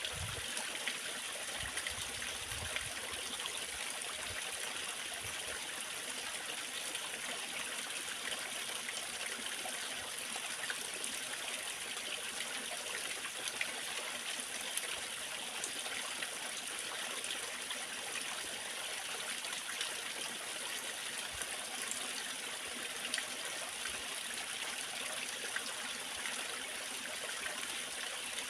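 Waterfall: water falling and splashing in a steady, unchanging hiss, strongest in the high range.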